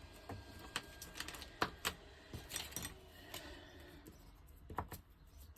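Irregular sharp plastic clicks and taps, about a dozen, as a Posca paint marker is handled and tapped to get its paint flowing.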